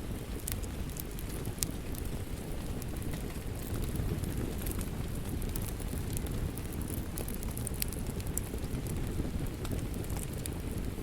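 Wood fire crackling and popping: scattered sharp pops over a steady low rumble of flames.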